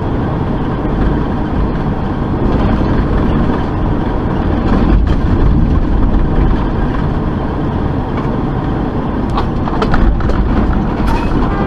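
Steady road and engine noise of a vehicle driving, recorded by a dash cam, with a few short clicks near the end.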